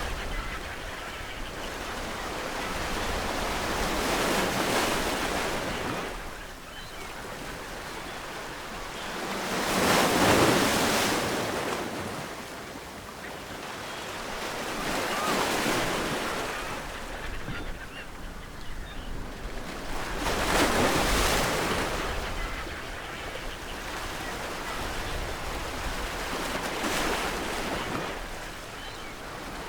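Ocean waves breaking on a shore, the surf swelling and falling back about every five to six seconds, with the loudest wave about ten seconds in.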